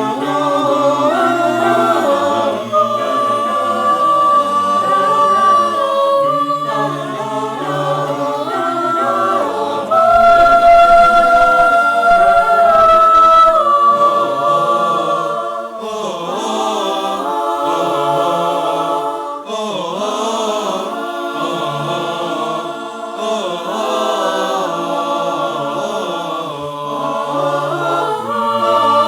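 Choir singing a cappella in several parts, with a low bass line beneath the upper voices. About ten seconds in the voices swell into a louder chord held for a few seconds before moving on.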